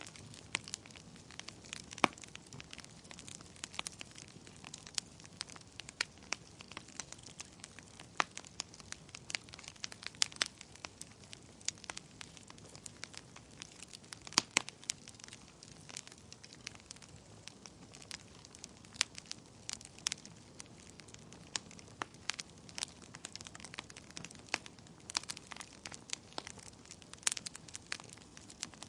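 Wood fire in a fireplace crackling: irregular sharp pops and snaps over a soft steady hiss of burning, with a few louder pops, one about two seconds in and a cluster around the middle.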